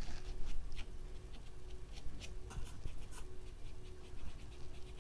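A paintbrush making acrylic paint strokes on the painting surface: a scatter of short, scratchy brush strokes and taps, bunched in the first few seconds.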